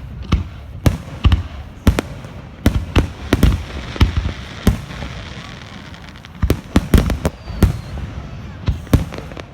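Fireworks display: a rapid, irregular series of sharp bangs and booms, with dense volleys about three seconds in and again about seven seconds in.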